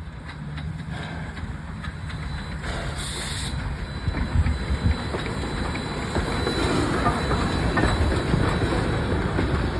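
Heritage steam train hauled by locomotive Rx224 rolling along the rails, wheels clattering, slowly growing louder as it arrives. A brief hiss comes about three seconds in.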